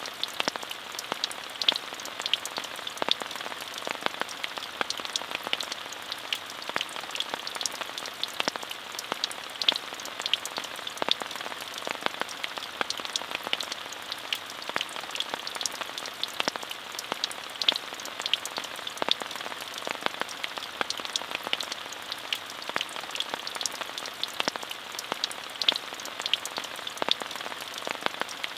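Steady rain falling, a dense even hiss broken by many distinct drop ticks.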